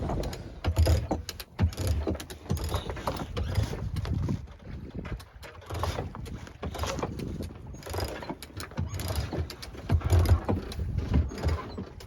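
Sailing yacht's winch ratcheting in irregular runs of clicks, with a few low thumps, as the mainsail is hoisted.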